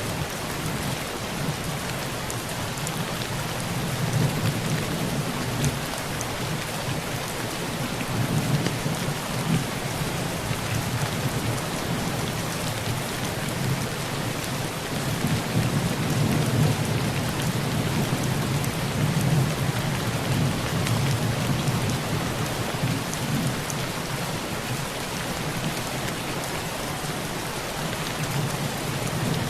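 Heavy rain drumming steadily on a tin roof, with low thunder rolling underneath that swells twice.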